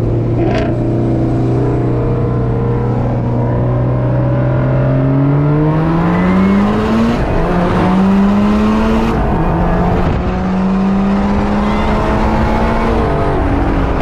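Car engine pulling hard through the gears. It holds steady, then climbs in pitch, drops sharply at an upshift about halfway through, climbs again, shifts once more, then runs steady before easing off near the end.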